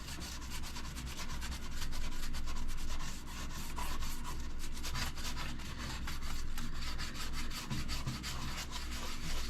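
Scrubbing baked-on grease off a toaster oven door with a baking soda paste: a steady run of quick, rasping back-and-forth strokes.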